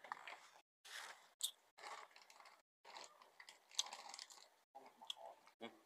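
A person biting into and chewing crunchy food, with irregular crisp crunches close to the microphone.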